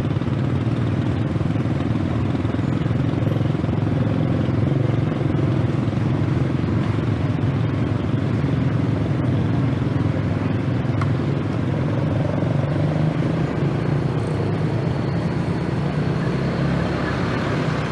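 Scooter engine running at a steady pace while riding, under an even rush of road and wind noise.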